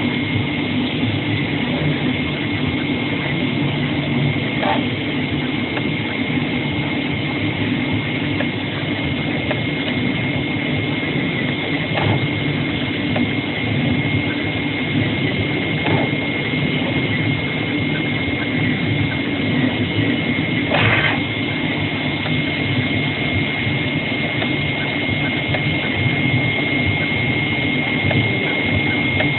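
AOKE CNC digital flatbed cutter running while it cuts paper shoe patterns: a steady machine hum with a constant high whine over it and a few faint clicks, about four in the whole stretch.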